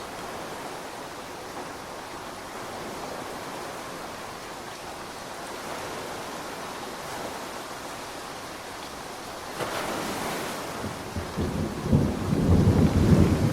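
Steady rain falling, an even hiss. About ten seconds in, thunder: a short crack, then a loud low rumble building near the end.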